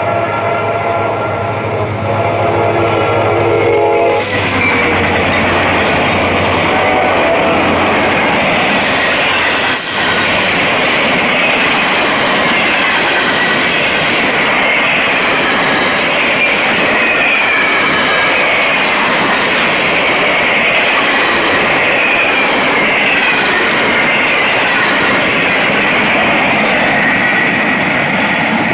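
Freight train horn sounding a steady chord for about the first four seconds as the locomotive approaches. It cuts off, and the train passes close by with a loud, steady rumble and clatter of wheels on rail, with wavering wheel squeal over the top.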